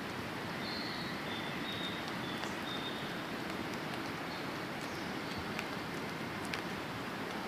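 Steady outdoor hiss with a few sharp pops, and a bird giving a short run of high chirps about one to three seconds in.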